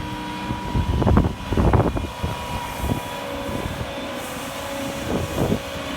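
Skid steer engine running steadily, with a few short louder bursts about a second in, briefly near three seconds, and again near the end.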